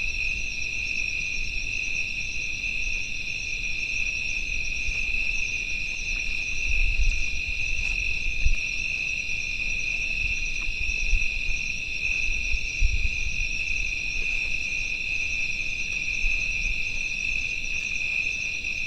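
Night chorus of crickets and other insects, a steady high-pitched ringing made of several overlapping trills at different pitches, one of them pulsing rapidly. A few soft low knocks sound close by, about a third and two thirds of the way in.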